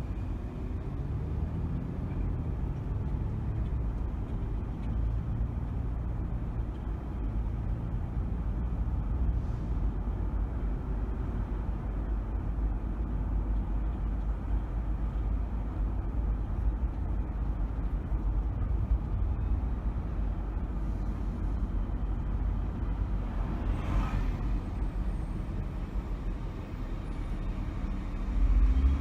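A car driving along city streets: steady low engine and road rumble, with a short hiss late on and a swell in loudness near the end.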